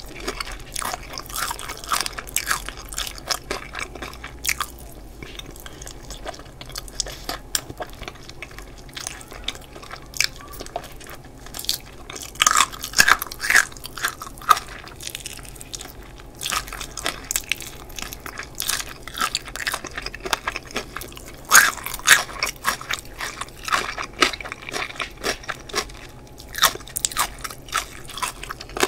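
Close-miked chewing and crunching of crispy fried chicken drumsticks, the crust crackling in sharp bites, with louder bursts of crunching about twelve and twenty-two seconds in.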